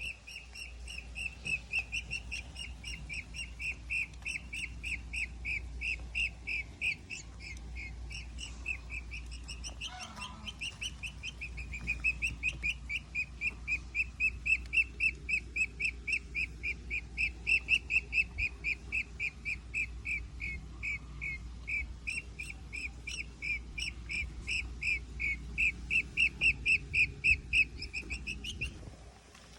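Owl chicks calling: a long unbroken run of short, high, chirping calls, several a second, louder in the middle stretch and again near the end, stopping shortly before the close.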